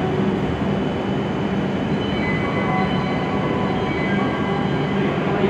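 E7 series Shinkansen train set pulling out of the platform: a steady running rumble with a few faint steady tones above it.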